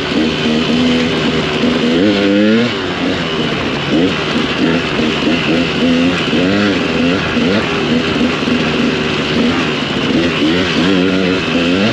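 Dirt bike engine under throttle, its pitch rising and falling as the rider works the throttle, with a sharp rev-up about two seconds in, over a steady rushing noise.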